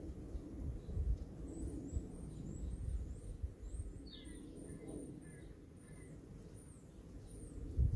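Small birds chirping: a string of short, thin, high chirps, with a few lower falling notes about halfway through, over a steady low rumble.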